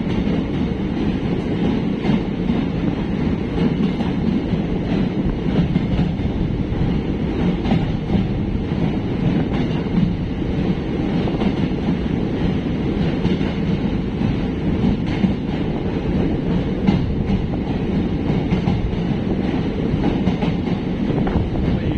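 Train running through a long rail tunnel: a steady, dense rumble of wheels on rail, with faint rapid clicking throughout.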